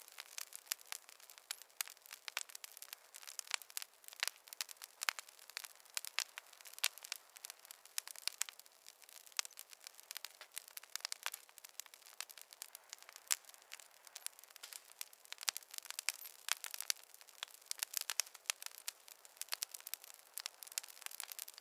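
Wood fire crackling in a fireplace: a dense, irregular run of sharp pops and snaps, several a second, over a faint hiss, with no low rumble.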